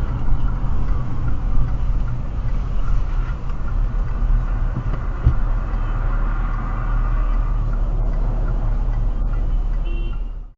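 Steady low rumble of a car's engine and tyres on the road while driving, with a single click about halfway through. It cuts off abruptly at the end.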